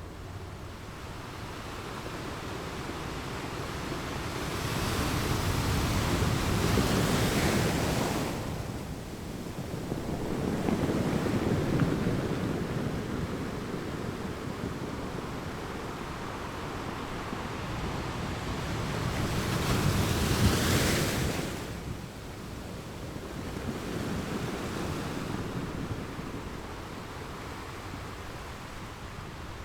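Ocean waves breaking on a beach: a steady wash of surf with a few louder waves rising and falling, the biggest crashing about a fifth and about two-thirds of the way through.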